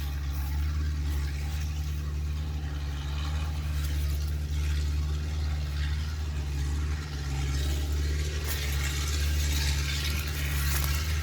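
An engine running at a steady speed, with a constant low hum and a hiss of wind or motion noise over it.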